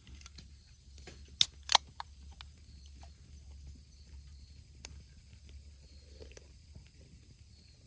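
Two sharp knocks about a third of a second apart, the loudest sounds here, among scattered fainter clicks over a steady low hum.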